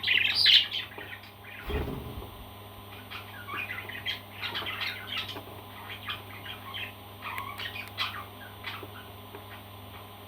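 Parrot calls: short squawks and chirps in quick runs, loudest in the first second. A dull thump comes at about two seconds.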